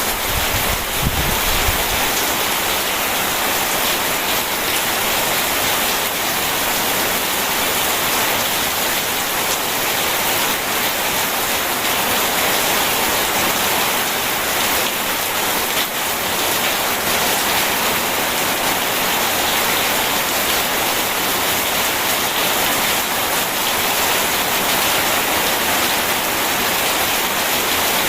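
Steady rain falling, an even hiss, with a brief low rumble in the first couple of seconds.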